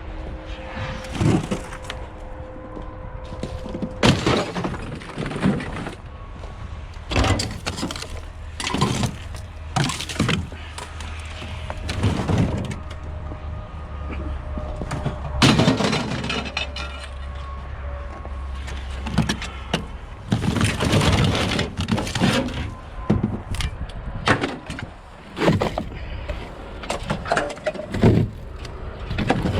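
Scrap being broken apart and handled: irregular knocks, cracks and crashes, some in quick clusters, over a low steady hum through the middle of the stretch.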